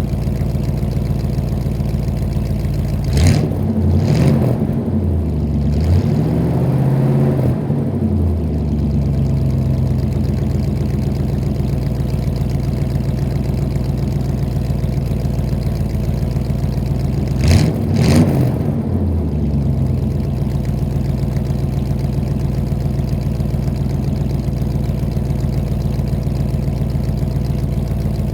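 1986 Chevy engine heard at the exhaust pipe, idling steadily. It is revved in quick blips about three seconds in, then in a slower rise and fall until about eight seconds. Two more quick blips come near eighteen seconds, and it settles back to idle.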